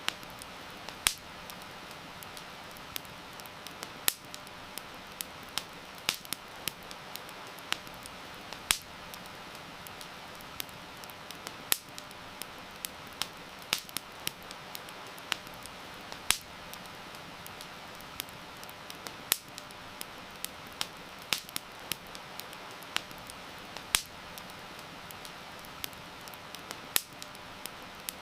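Wood fire crackling, with irregular sharp pops and snaps over a steady hiss of rain.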